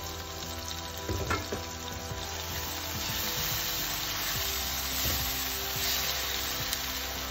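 Chopped tomatoes and onion sizzling in hot oil in a nonstick pan, stirred with a silicone spatula. A brief knock about a second in as the glass lid is set aside.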